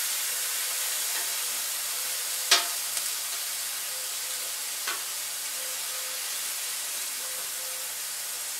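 Cube steaks and onions sizzling on a hot flat-top griddle, a steady hiss. Metal tongs click sharply against the griddle about two and a half seconds in, with lighter clicks just after and again near five seconds.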